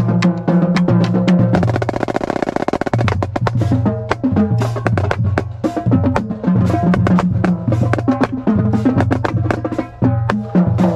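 Marching snare drum playing a drumline cadence with other marching drums, sharp rapid strokes with a fast roll about two seconds in, over low sustained drum tones.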